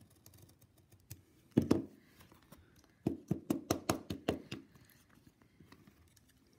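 A thick trading card being torn and peeled apart by hand: a sharp crack about a second and a half in, then a quick run of about eight crackling clicks between three and four and a half seconds in.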